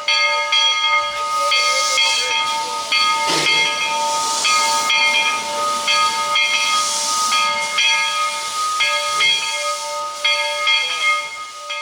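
A steam locomotive's bell ringing steadily, struck about twice a second, over steam hissing from the engine that swells every few seconds. This is narrow-gauge engine #7.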